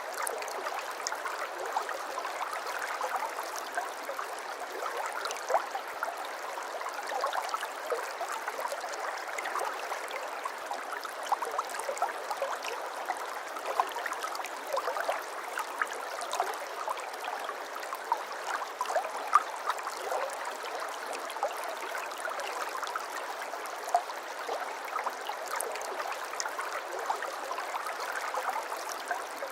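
Water of a stream babbling and trickling steadily, with many small splashes scattered through the flow.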